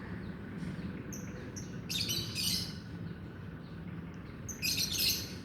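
Lovebird giving shrill, high chirps in short bursts, a loud cluster about two seconds in and the loudest one near the end.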